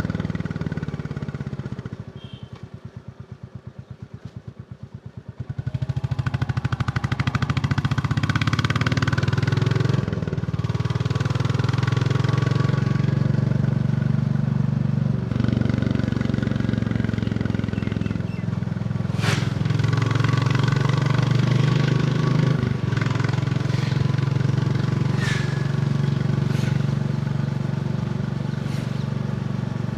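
Royal Enfield Bullet 350's single-cylinder engine on the move. About two seconds in it falls to a slow, even thump on a closed throttle, then picks up again a few seconds later and pulls steadily, its note dipping briefly a few times along the way.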